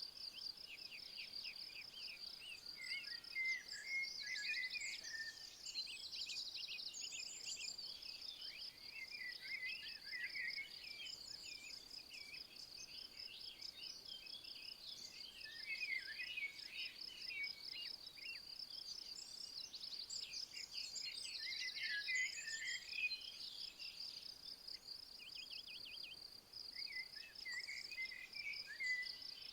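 Crickets trilling steadily in a fast, even, high-pitched pulse, with songbirds singing in short bursts several times over it.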